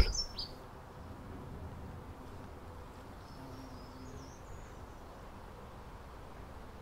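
Faint outdoor background ambience with a bird chirping faintly just at the start and again about three and a half seconds in.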